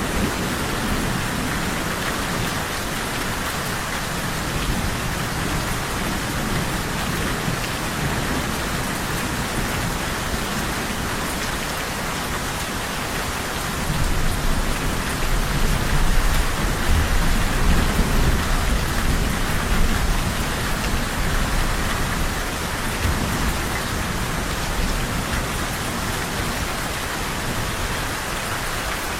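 Steady rain falling on a surface, with a low roll of thunder swelling about halfway through and fading over several seconds.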